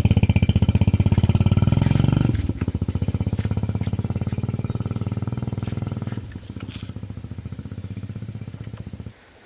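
Motorbike engine running with a steady rapid firing pulse. It runs faster and louder for the first two seconds or so, then settles to a slower idle. It is shut off abruptly about nine seconds in.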